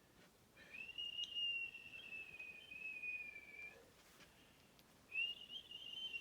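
Two long, steady whistled notes, each about three seconds, sliding up at the start and dropping away at the end, with a short gap between them.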